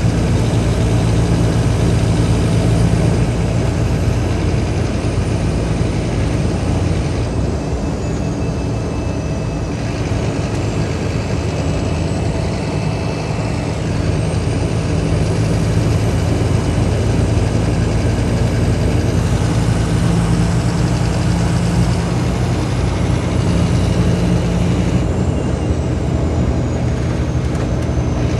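Scania K310IB bus's diesel engine running at fairly steady revs, a deep even hum.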